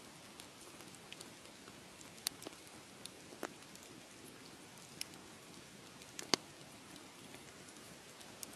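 Fire crackling in a fireplace: a steady soft hiss with scattered sharp pops, the loudest about six seconds in.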